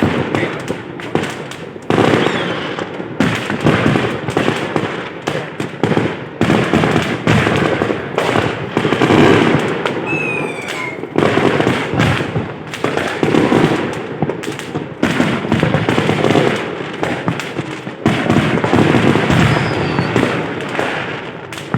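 Aerial fireworks going off in a dense, continuous barrage of booms and crackling bursts, with a brief falling whistle about ten seconds in.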